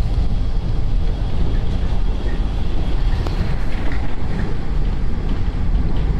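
Strong wind buffeting the microphone: a loud, steady, gusty rumble.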